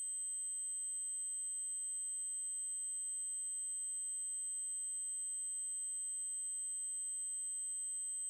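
Steady high-pitched electronic test tone: an 8192 Hz triangle wave, held at a constant pitch and level.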